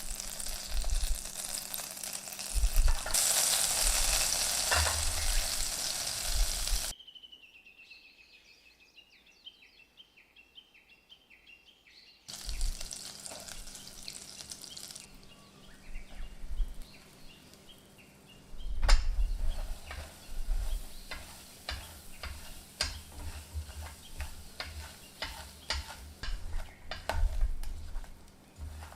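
Food sizzling in a hot frying pan, with a spatula stirring and tapping against the pan. The sizzling drops away for about five seconds in the first half, then returns more softly with many quick clicks of the utensil.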